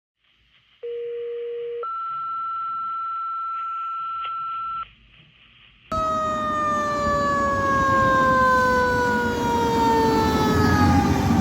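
Two-tone fire dispatch page over a radio scanner: a steady low tone for about a second, then a higher tone for about three seconds. About six seconds in, a fire truck's siren comes in loud, its pitch falling slowly, over engine rumble.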